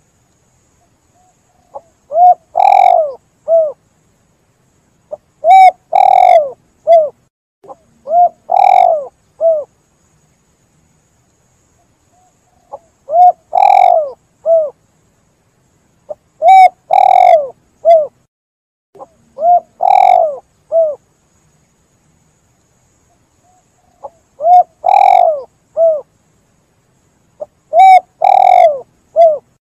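Spotted dove (tekukur) cooing: about eight phrases of a few low, clear coo notes each, repeated with pauses of one to four seconds between them.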